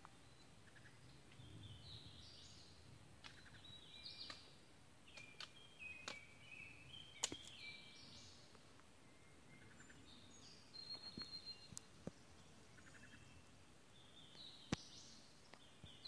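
Faint birdsong in woodland: several short, high, stepped song phrases repeating throughout, with a quick run of notes a little past the middle. A few sharp clicks break in, the loudest about seven seconds in and again near the end.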